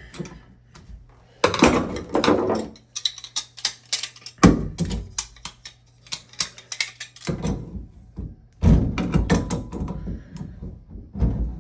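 Irregular metal clicks, knocks and scraping of a tool working at a stuck Delta shower valve bonnet nut that will not turn.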